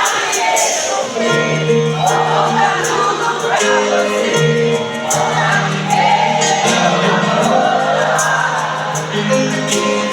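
Live band music with singing over a steady bass line and regular cymbal ticks.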